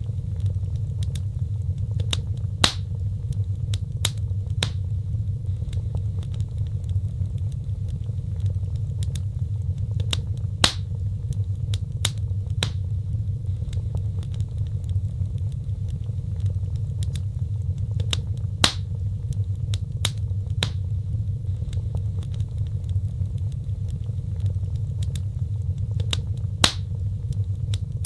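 Wood fire burning: a steady low rumble of flames with frequent sharp crackles and snaps, and four louder pops about eight seconds apart.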